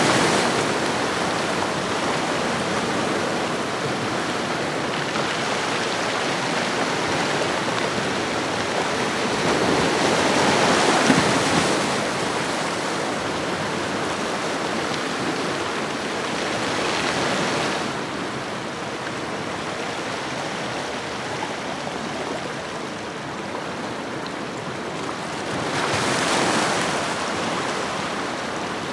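Ocean waves washing onto a shore: a steady rush of surf that swells with each breaking wave, about four times.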